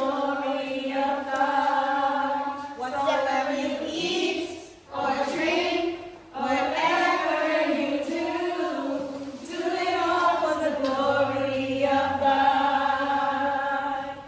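Unaccompanied singing, with long held notes and short breaks about five and six seconds in.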